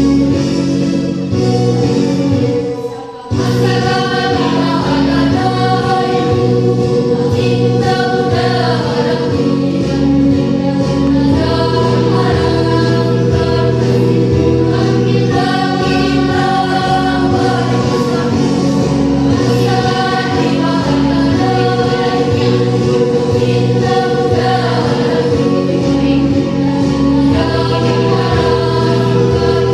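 A choir singing in unison and harmony, with a brief break about three seconds in.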